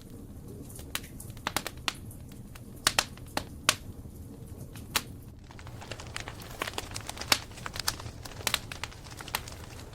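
Campfire burning, with burning wood crackling and popping at irregular intervals. The pops come more often in the second half.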